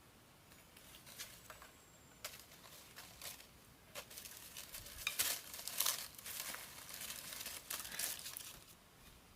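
Irregular crackling and rustling, like something dry being crumpled or handled. It grows busier and louder around the middle, then dies away near the end.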